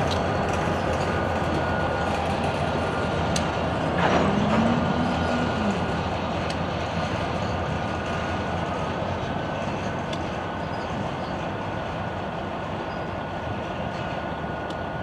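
Freight train rolling past on the rails: a steady rumble of wheels and cars with a faint steady high-pitched tone. About four seconds in there is a short louder swell, and after it the rumble slowly fades.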